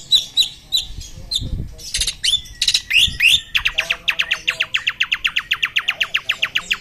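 Two caged songbirds, an Asian pied starling and a white-rumped shama, singing loudly against each other with sharp chirps and whistles. From about three and a half seconds in, one of them delivers a long run of rapid repeated notes, about nine a second.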